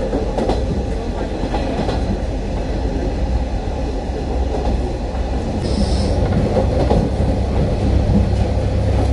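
Diesel railcar of the Futatsuboshi 4047 (KiHa 40/47 series) running at speed, a steady rumble of engine and wheels on rail heard inside the car, with a brief hiss about six seconds in.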